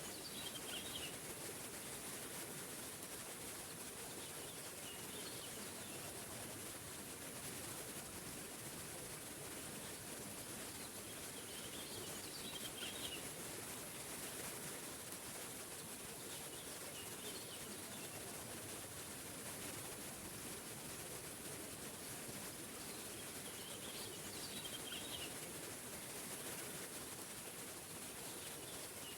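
Small waterfall rushing steadily, with a bird giving short bursts of chirps every few seconds over the water.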